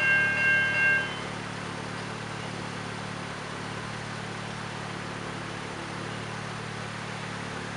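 Level crossing's electronic bell ringing in pulses about twice a second, then stopping about a second in. Afterwards a steady low engine hum of road vehicles.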